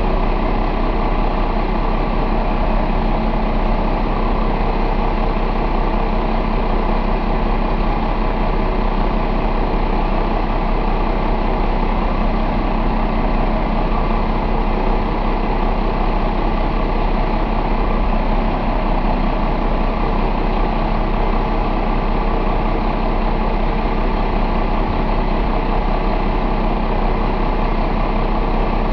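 Cummins Big Cam IV 88NT inline-six diesel engine running steadily at an even speed, with no revving or change in pitch.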